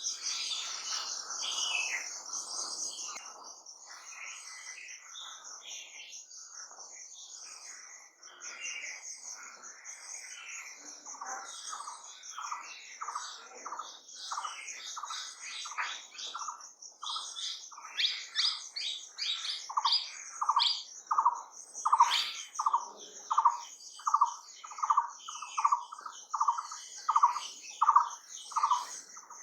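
Wild birds singing: a continuous high trill runs underneath, and about a third of the way in one bird starts repeating a short, lower note about one and a half times a second, growing louder in the second half.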